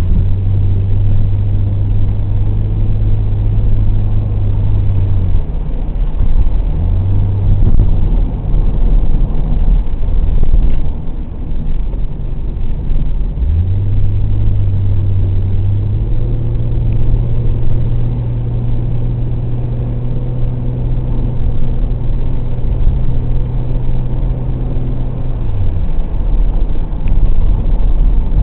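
Car engine droning at steady revs in long held stretches, stepping slightly higher partway through, over a constant low rumble of road and wind noise.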